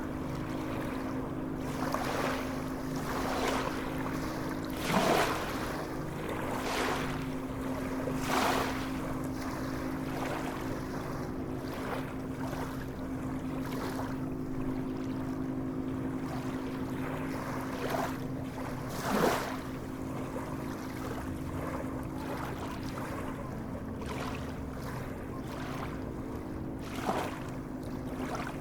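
Sea water splashing and lapping in repeated short surges, two of them louder, over a steady low hum.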